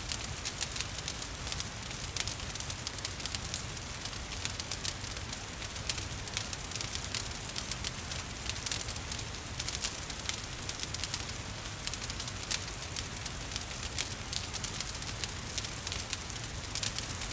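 Wood fire crackling with frequent sharp pops over a steady low rumble of flames, mixed with a soft hiss of gentle rain.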